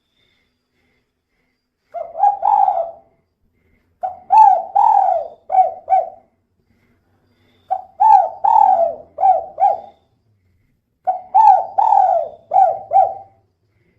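Female spotted dove (tekukur) cooing in four phrases of several quick notes each. The first phrase, about two seconds in, is short; the other three each last about two seconds and are spaced by short pauses.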